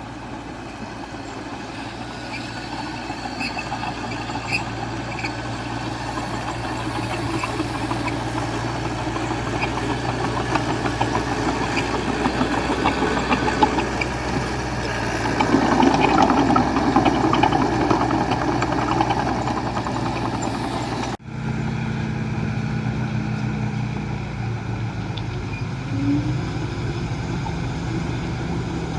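Diesel engine of a small crawler bulldozer running under load, growing louder about halfway through. A sudden cut about 21 seconds in switches to a steadier engine drone.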